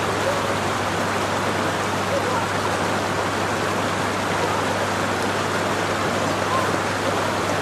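Water rushing steadily through a farm hydro scheme's watercourse.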